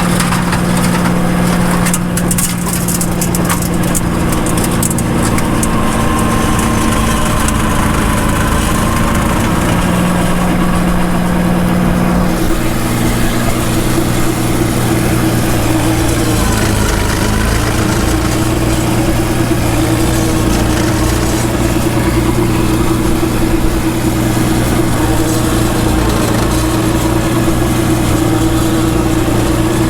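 Ford 1720 compact tractor's three-cylinder diesel engine running steadily. Its pitch shifts to a lower, steadier note about twelve seconds in.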